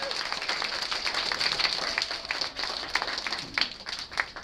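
Audience applauding: dense clapping that thins out to a few scattered single claps toward the end.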